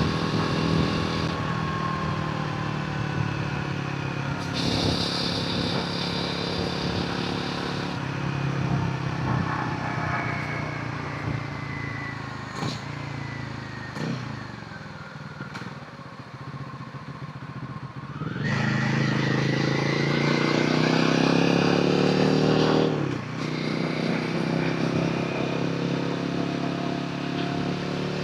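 Royal Enfield Himalayan 450's single-cylinder engine and exhaust on the move, its pitch rising and falling with the throttle. It eases off and quietens through the middle, then gets suddenly louder under hard acceleration about two-thirds in, dropping back abruptly a few seconds later.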